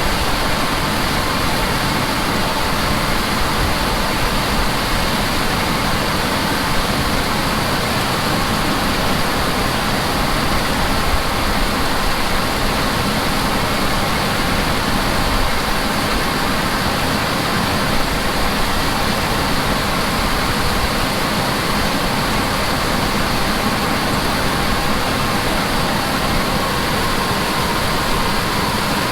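Steady running noise of heavy farm machinery during corn harvest, an even engine and machine rush with a faint steady hum and no change in pace.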